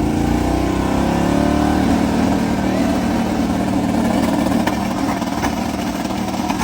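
Car engine running at a steady speed after rising in pitch just before, with a few light clicks near the middle.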